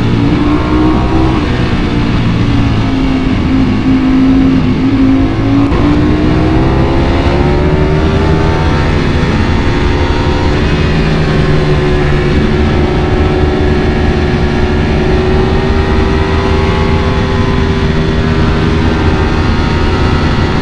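Ducati Panigale V4 motorcycle engine under way on the road. Its note drops to a low point about four seconds in, then climbs gradually as it pulls and holds a fairly even pitch.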